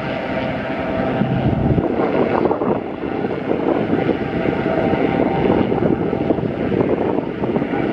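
Aircraft engine running steadily with a faint steady whine, under heavy wind buffeting the microphone.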